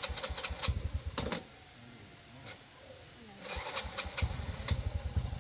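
A small vehicle engine being tried: a run of clicks and knocks, then it starts and runs with a quick, even low beat about four seconds in.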